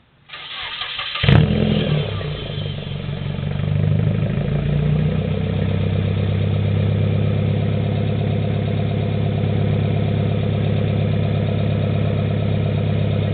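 Nissan KA24DE 2.4-litre four-cylinder through a dual 3-inch straight-pipe catback (stock manifold and cat) starting up fairly cold: the starter cranks for about a second, the engine catches with a pretty loud bark, then settles over a few seconds into a steady, low, growly idle.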